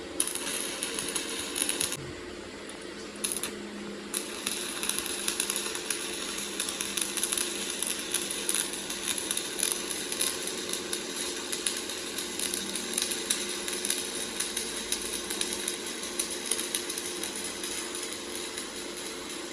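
A power tool working metal, with a dense, rapid crackle. It starts and stops twice in the first few seconds, then runs steadily.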